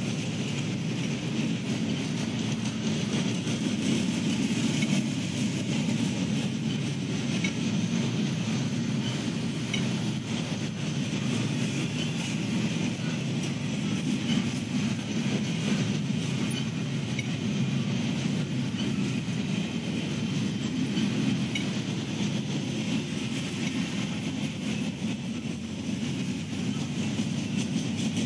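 CSX mixed freight train's cars rolling past, with a steady, continuous noise of steel wheels on rail.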